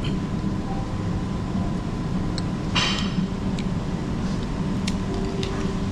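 Dining-room background noise: a steady low hum with scattered light clicks of cutlery and dishes, and one brighter clink about three seconds in.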